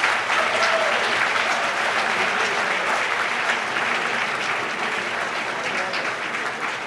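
Audience applauding: a large crowd clapping steadily, tapering off slightly near the end.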